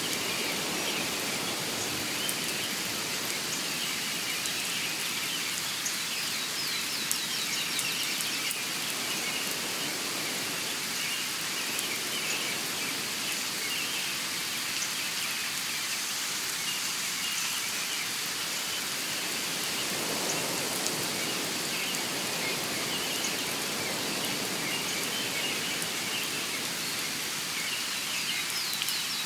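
Nature recording: a steady outdoor hiss of rain-like noise, with small birds chirping and twittering over it throughout and a quick trill about seven seconds in and again near the end.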